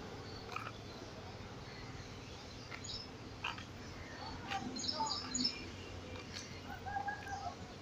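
Faint open-air ambience: scattered short bird chirps over a low, steady rumble from the passenger train moving away.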